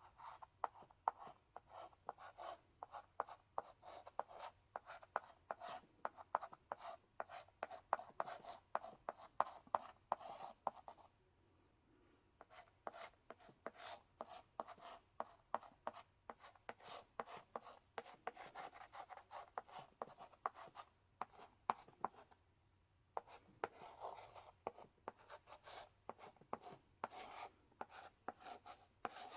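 Chalk in a chalk holder writing on a blackboard: quick runs of tapping, scratchy strokes, broken by two short pauses, one near the middle and one about three-quarters through.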